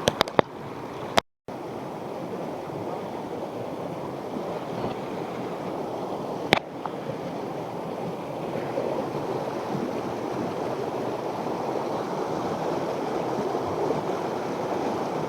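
Stream water flowing steadily over stones, an even rushing noise. A few sharp clicks just after the start and a single sharp click about six and a half seconds in, with a short break in the sound a little over a second in.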